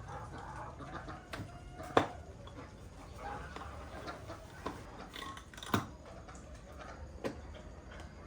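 A few sharp knocks over a faint background, the loudest about two seconds in and another just before six seconds.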